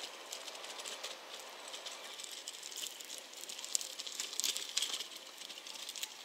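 A JR West 115-series electric train pulling away at a distance, heard as irregular light clicking and rattling of its wheels over the rails, with no engine rumble. The clicks come thickest and loudest a little past the middle.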